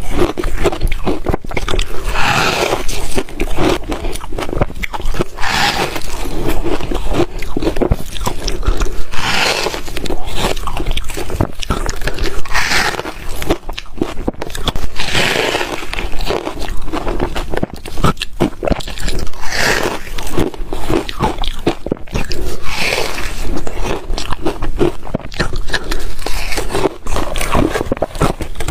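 Ice being bitten and crunched between teeth: dense crackling chewing, with a stronger crunch every few seconds.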